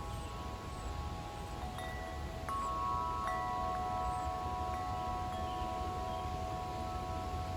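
Wind chimes ringing, several tubes sounding at once in long, overlapping tones. Fresh strikes come in about two and a half and three and a quarter seconds in. A steady low rumble runs underneath.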